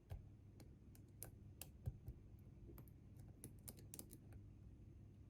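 Faint, irregular clicks and ticks of a lock pick working inside a Bi-Lock cam lock held under tension.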